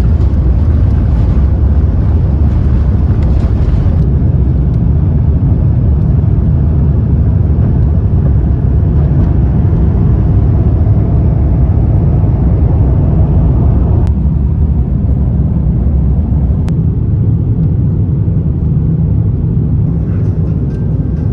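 Jet airliner cabin noise: a loud, steady low rumble of engines and rushing air.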